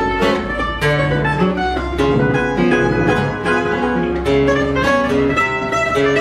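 Portuguese guitar picking a melody of quick, bright plucked notes over the bass notes and chords of a viola de fado: the instrumental introduction of a fado, before the voice comes in.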